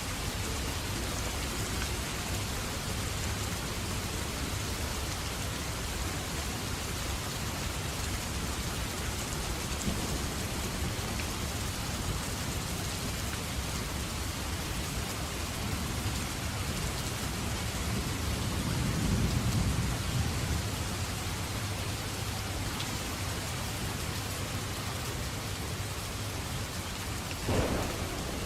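Steady rain falling, with a low rumble of thunder swelling past the middle and a sharp crack of thunder near the end.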